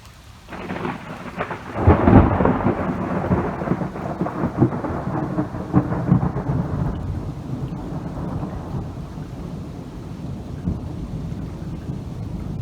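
A thunderclap breaking in about half a second in, peaking a little later, then rolling and crackling as it slowly fades, with rain falling.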